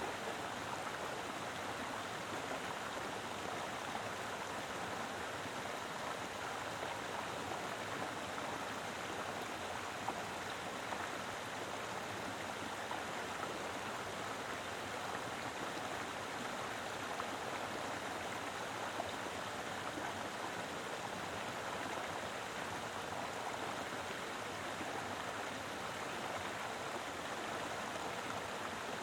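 Mountain river flowing over rocks: a steady, full rush of water, with now and then a small splash or gurgle standing out.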